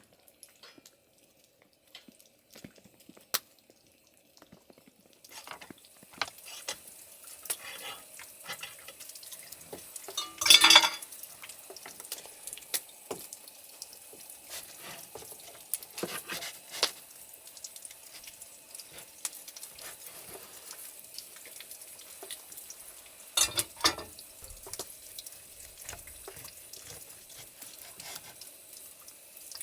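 Wood campfire crackling with a pork loin roasting on a rotisserie over it. A faint steady sizzle comes in about five seconds in. Two louder clattering bursts stand out, one near the middle and one later.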